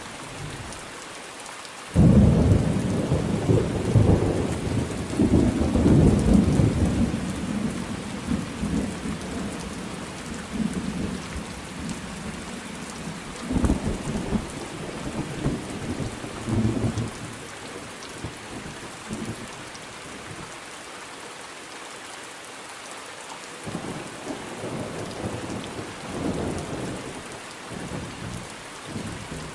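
Steady rain falling, with thunder: a sudden loud clap about two seconds in that rolls on and dies away over several seconds, then fainter rumbles later on.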